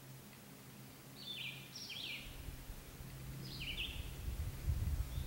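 A songbird singing two short phrases of quick falling notes, about a second in and again past the middle, over a faint low rumble that grows toward the end.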